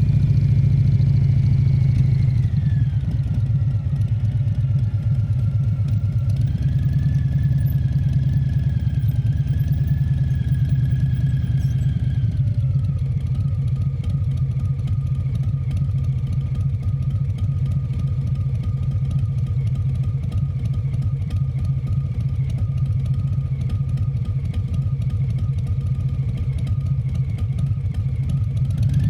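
Harley-Davidson Fat Bob 114's Milwaukee-Eight V-twin running steadily with a deep, even engine note. A faint higher whine steps down a few seconds in, rises again, then drops once more before holding steady for the rest.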